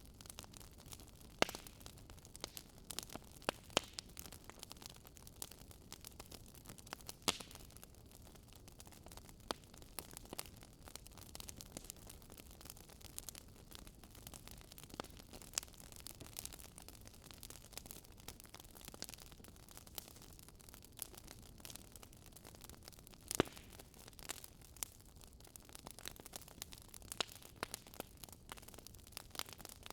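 Campfire crackling: irregular sharp snaps and pops, a few louder than the rest, over a faint low hiss of burning wood.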